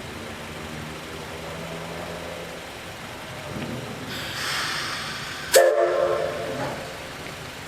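C12 66 steam locomotive (a 2-6-2 tank engine) letting out a hiss of steam, then giving a short blast on its steam whistle about two thirds of the way in.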